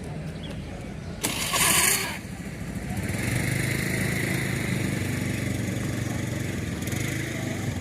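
A motor vehicle's engine running steadily, with a short, loud hissing burst a little over a second in.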